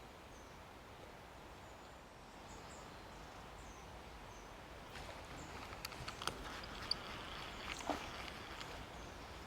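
Faint outdoor background hiss with small, distant bird chirps. From about halfway, a scatter of small sharp clicks and knocks.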